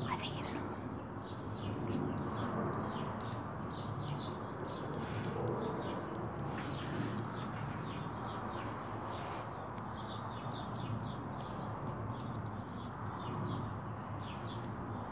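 Small birds chirping repeatedly in short notes, with a thin high note sounding on and off through the first half, over a low, steady outdoor background noise.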